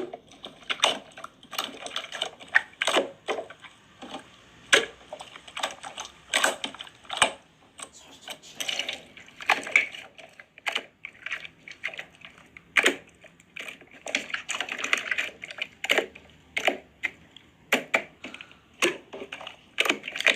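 Rapid, irregular clicking and tapping, many sharp clicks a second with some louder knocks, like keys being struck.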